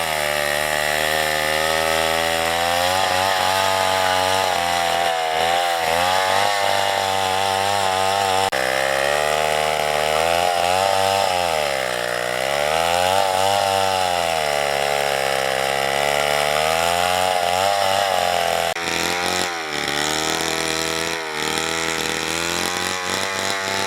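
Chainsaw running and cutting wood. Its engine pitch sags and recovers again and again as the chain loads up in the cut, with the deepest dip about halfway through.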